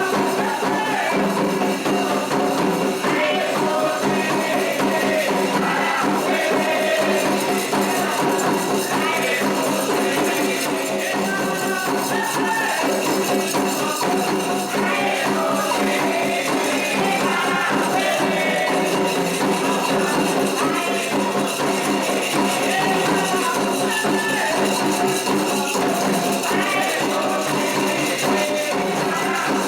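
Candomblé ceremonial music: steady, driving hand-drum and rattling percussion rhythm with chanted singing over it.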